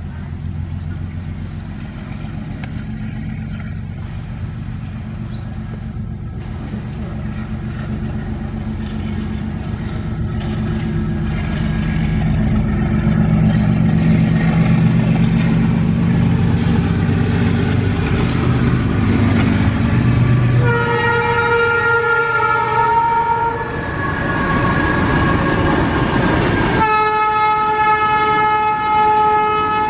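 Diesel locomotive engine humming under the rumble of passing trains, the wheel and rail noise growing louder. A locomotive horn then sounds a long chord about two-thirds through, and again near the end.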